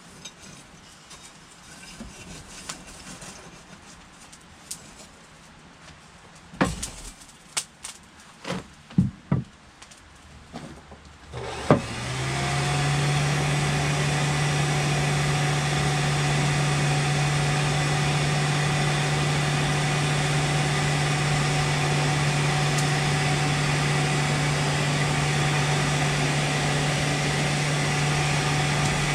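A few scattered knocks and clanks, then about twelve seconds in a motor-driven machine starts up, its pitch rising briefly as it spins up, and runs steadily with a low hum.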